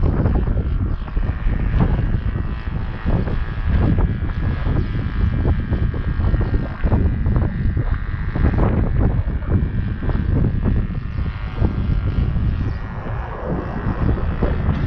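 Saito FG-21 four-stroke gas engine of a model plane running at a steady pitch, heard under heavy wind buffeting on the microphone.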